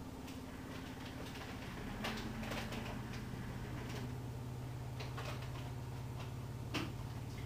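Bosch dishwasher running its quick wash cycle: a steady low pump hum that steps up a little about two seconds in, with irregular ticks and clicks from water spray striking the load and tub, one sharper click near the end.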